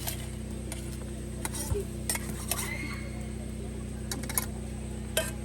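Metal utensils clicking and clinking against a pan and dishes while pancakes are cooked, over a steady low hum.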